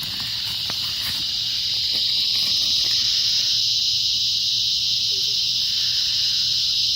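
A chorus of insects singing in a steady, high, even buzz, which swells a little over the first couple of seconds and then holds.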